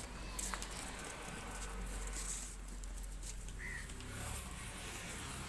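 Goat pen ambience: scattered light clicks and shuffles over a steady low background, with a brief high chirp about three and a half seconds in.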